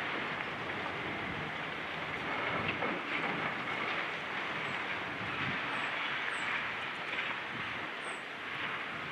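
Demolition machinery at work: a steady mechanical rumble with rattling and clatter, with no single loud impact standing out.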